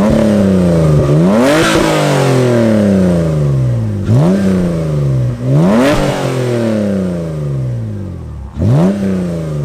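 Toyota MR2 engine revved through its new exhaust, which has no muffler: about five quick rises in revs, each sinking slowly back down.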